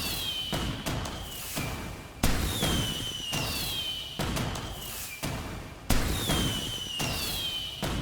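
Fireworks going off: a loud bang about two seconds in and another near six seconds, each followed by a high falling whistle and smaller crackling pops. The same pattern comes round every three and a half to four seconds.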